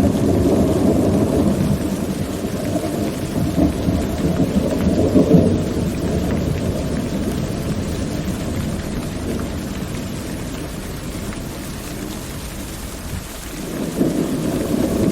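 Steady rain with rolling thunder. A long, low rumble of thunder slowly dies away, and a new roll builds near the end.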